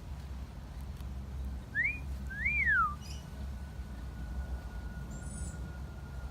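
A wolf whistle, a short rising note and then a longer note that rises and falls, about two seconds in. A faint steady high tone follows and holds, over a steady low hum.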